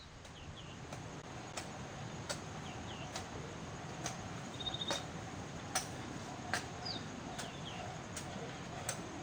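Birds chirping, short high calls, some falling in pitch, over a background hiss. Under them, sharp ticks repeat evenly about once every 0.8 seconds from about a second and a half in.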